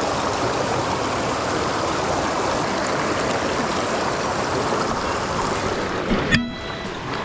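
Fast-flowing mountain stream rushing steadily. A single sharp knock comes about six seconds in, and the rushing briefly drops away just after it.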